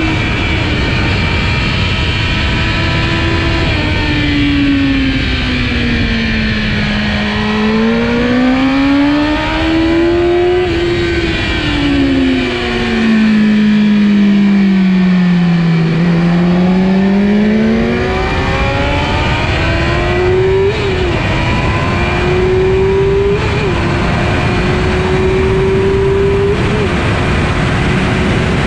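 Kawasaki ZX-10R's inline-four engine running hard at track speed, its pitch falling and rising twice as the revs drop and climb, then holding high with three brief blips in the last third.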